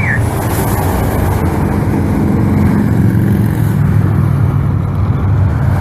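Motorcycles of a large group ride passing in a steady stream, their engines running together in one loud, continuous rumble.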